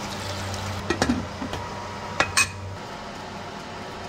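A few light clinks of a blender jar knocking against the rim of an aluminium pressure cooker pot as blended sauce is poured in, over a low steady hum that stops about two-thirds of the way through.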